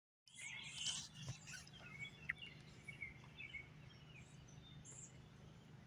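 Wild birds chirping faintly in a yard: many short, scattered calls, busiest about a second in, over a steady low hum.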